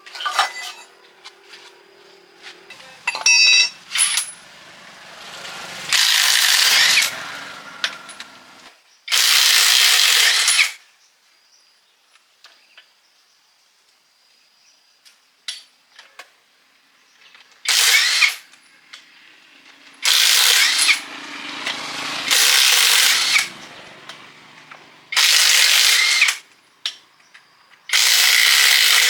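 A power tool run in repeated short bursts of about one to one and a half seconds, around eight times, with brief pauses between.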